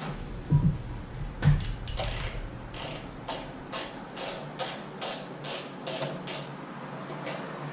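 Hand ratchet wrench being worked on a bolt: short runs of ratchet clicks about twice a second, after a couple of low knocks in the first second and a half.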